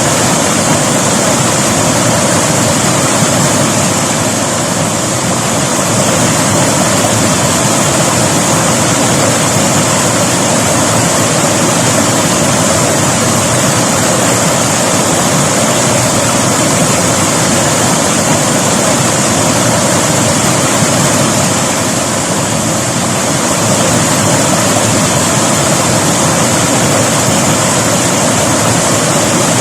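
River water rushing over rocks in a steady, loud roar, with slight swells and dips in level.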